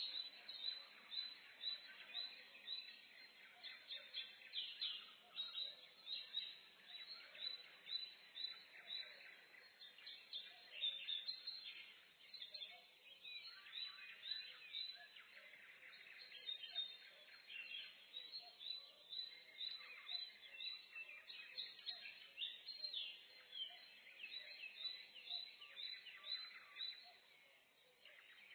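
Several songbirds singing and chirping at once in a forest, a steady chorus of short, high chirps and trills.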